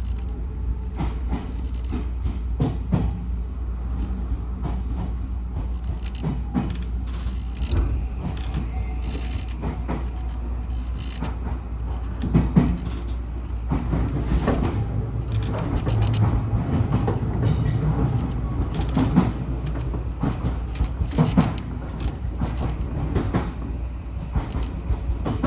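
Odakyu 1000 series electric train running on the line, a steady low rumble of wheels on rail broken by irregular clicks and knocks from the track. A low motor hum swells about halfway through.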